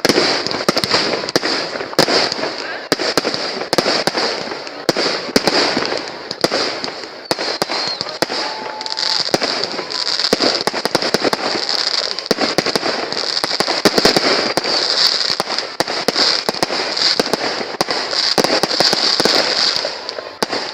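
Fireworks display going off: a dense, unbroken run of sharp bangs over continuous crackling.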